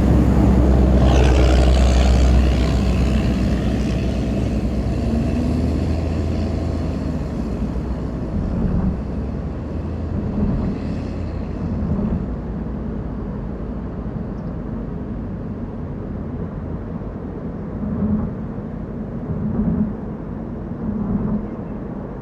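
Car driving on a mountain road: steady engine and tyre rumble, loudest for the first couple of seconds and then easing off, with a few brief low swells later on.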